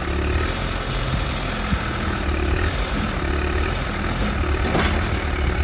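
John Deere 310D backhoe's four-cylinder diesel engine running steadily as the machine is worked, its note shifting slightly as load comes and goes. There is a brief sharper noise a little before five seconds in.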